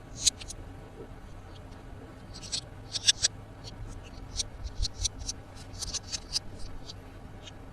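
Irregular crinkles and sharp little clicks of plastic toy packaging and toys being handled, with denser flurries about a third of the way in and again past the middle.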